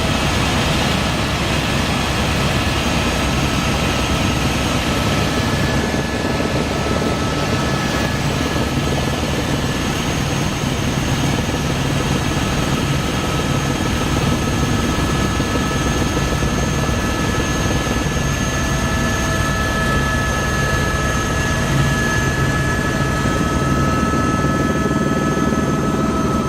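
Helicopter in flight: steady rotor and engine noise with a few constant high whining tones over it.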